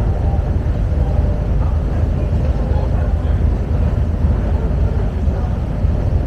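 Passenger ferry underway: a steady low rumble of engine and hull noise, with faint voices.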